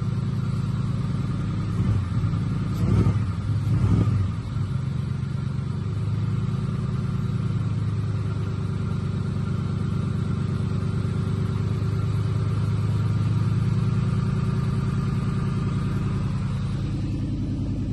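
Ford 4.6-litre four-valve V8 from a Lincoln Aviator idling steadily just after a fresh start, with a few brief louder swells about two to four seconds in. The owner calls it really rich.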